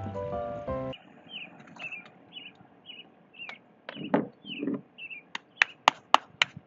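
Background music cuts off about a second in. After that a small bird chirps repeatedly in short, slightly falling notes. A brief scuffle follows, and near the end comes a quick run of about six sharp clicks or knocks, the loudest sounds here.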